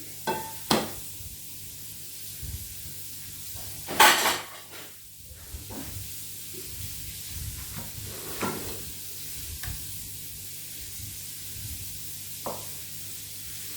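Meatballs frying in a pan with a steady sizzling hiss, while a utensil knocks and scrapes against pots as cooked rice is moved into a pot; one loud clatter about four seconds in, and a few lighter knocks.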